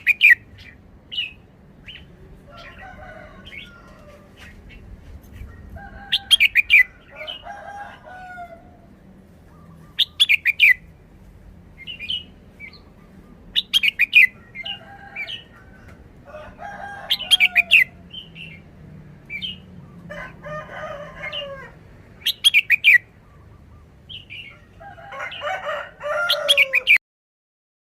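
Red-whiskered bulbul singing short, loud, sharp whistled phrases every few seconds, with softer chattering between them. The song stops about a second before the end.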